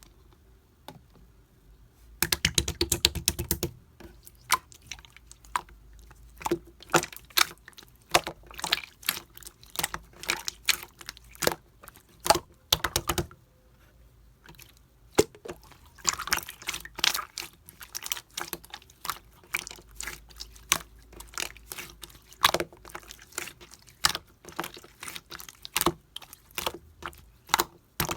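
Slime being squeezed and kneaded by hand, giving quick wet clicks and pops in dense runs with short pauses between.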